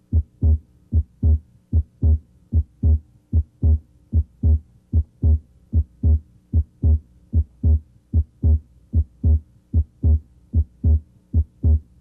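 Human heart sounds through a stethoscope at the left third intercostal space: a steady lub-dub, S1 then S2, at about 75 beats a minute. Both components of S2 may be heard here, A2 from aortic and P2 from pulmonic valve closure, during deeper-than-normal breathing.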